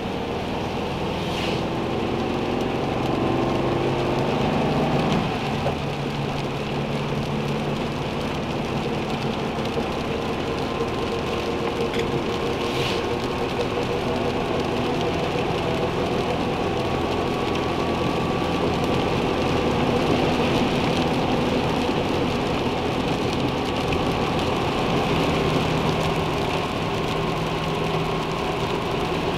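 Steady rain falling on a small car, with an engine hum running underneath that settles into a steady idle after the first few seconds. A couple of sharper taps stand out, about a second and a half in and again near the middle.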